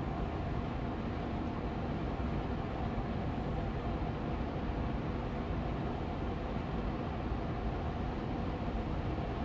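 Austin Air Allergy Machine air purifier fan running steadily on medium speed: an even, unchanging airy hum with a faint steady tone in it.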